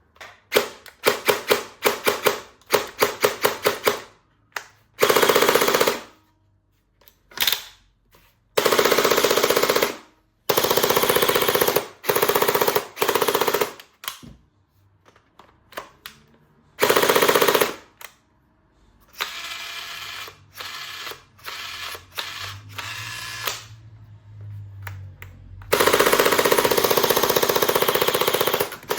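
Electronic toy guns playing their gunfire sound effects: a quick run of single shots, then repeated bursts of machine-gun fire a second or two long, with a quieter stretch about two thirds of the way through.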